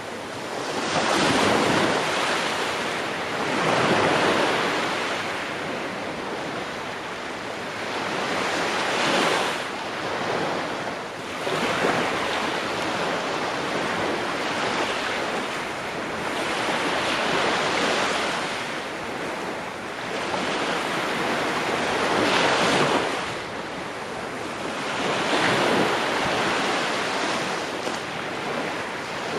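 Ocean waves breaking on the shore, the surf rising and falling in repeated swells every few seconds, with some wind.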